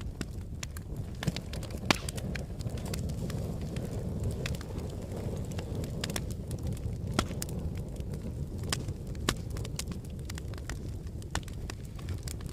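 Wood fire burning in a fireplace: a steady low rumble of flames with sharp, irregular crackles and pops, the loudest pop about two seconds in.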